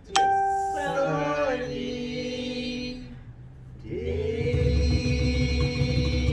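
Singing in long held notes that start suddenly just after the beginning, with a fuller musical accompaniment coming in about four seconds in.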